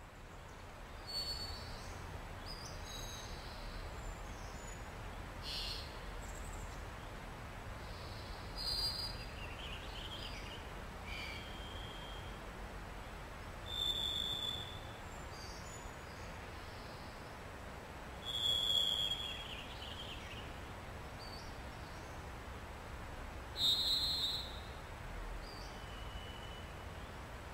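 Short, high-pitched bird chirps and whistled notes, one every couple of seconds, about a dozen in all, over a steady low background hiss.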